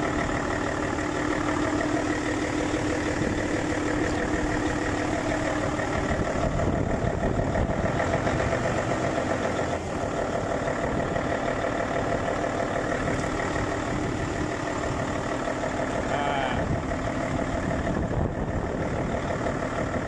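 Mercedes-Benz Actros diesel truck engine idling steadily, with no knock: the faulty roller tappet that caused the knocking has been replaced.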